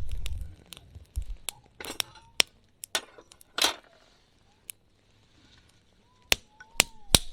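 Sharp clicks and knocks at irregular intervals, some single and some in quick clusters, with a low rumble in the first half-second.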